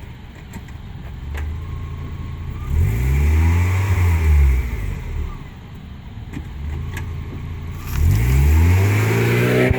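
Mazda Miata engine revving up and dropping back twice.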